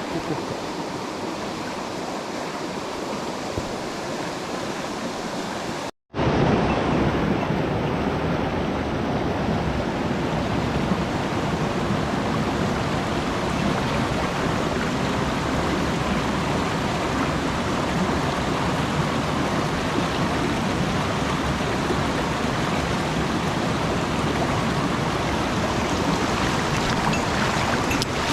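Mountain stream water rushing steadily over rocks. About six seconds in the sound cuts out for a moment, then returns louder and fuller.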